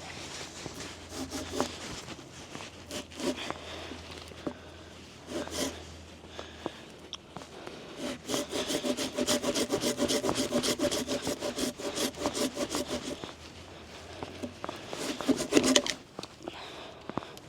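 Hand saw cutting through wood in back-and-forth strokes. A few short bouts of strokes come first, then a steady run of quick strokes for about five seconds, then a last short burst near the end.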